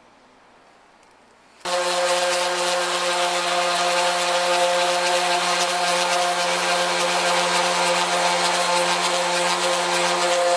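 Power sander switched on about a second and a half in and running steadily, a motor hum under a broad rasp, as it sands the car door's paint down toward bare metal.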